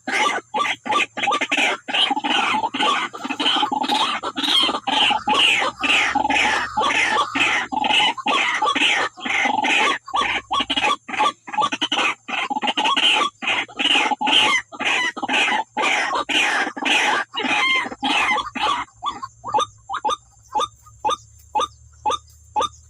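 Wak-wak bird (white-breasted waterhen) calling in a loud, rapid series of repeated harsh notes, about two to three a second, which thin out to sparser, quieter calls near the end.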